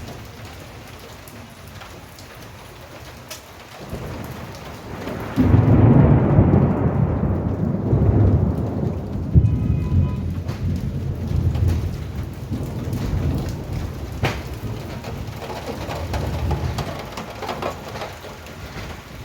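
Steady rain falling, then a thunderclap about five seconds in that rolls into a long, low rumble and slowly dies away over some ten seconds.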